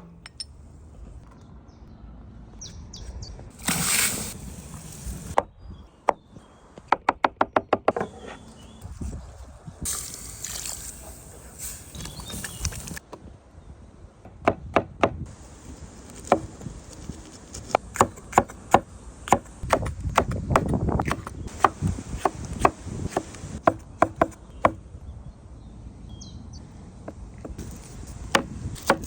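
Food being prepared with a knife on a cutting board: runs of quick chopping strokes, one fast run of about eight a second, with a couple of short bursts of hiss between them.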